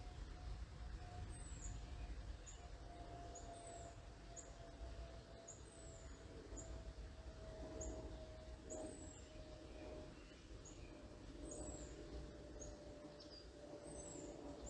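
Small birds giving thin, very high chirps and short down-slurred calls, roughly one a second, faint over a low rumble. A faint steady hum runs underneath and slowly drops in pitch.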